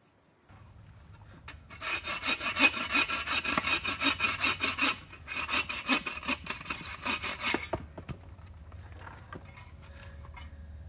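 Hand saw bucking firewood, cutting through a log in quick back-and-forth rasping strokes with a short pause about five seconds in. The sawing stops about eight seconds in, leaving fainter scraping and handling sounds.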